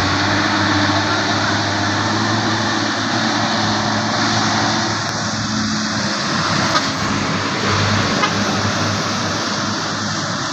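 Heavy truck engine running steadily, with a low hum under a wide noise haze of engine and road noise.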